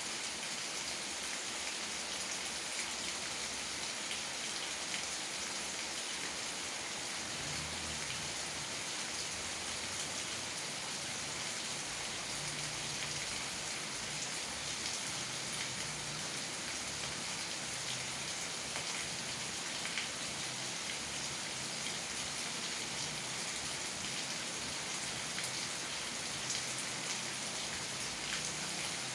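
Steady rain falling, an even hiss with the patter of many small drops.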